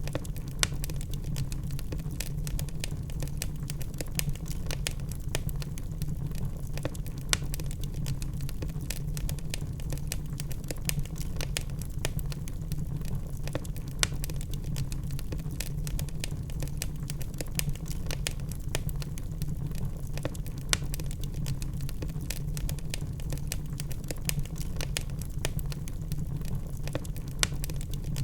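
Logs burning in a fireplace: continuous crackling over a low rumble of flame, with a sharper, louder pop every six or seven seconds.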